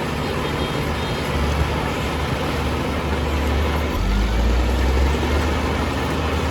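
Heavy diesel earthmoving machinery running steadily, getting louder and deeper about four seconds in for a second or two.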